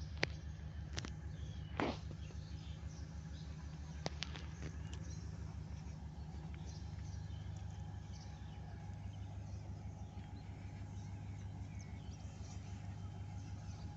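Faint bird chirps over a steady, rapidly pulsing low hum, with a few sharp clicks in the first few seconds.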